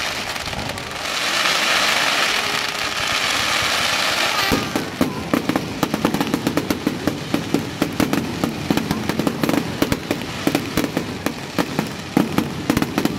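Fireworks: a hiss in two long swells, then from about four and a half seconds in, a dense stream of rapid crackling pops from glittering crackle stars.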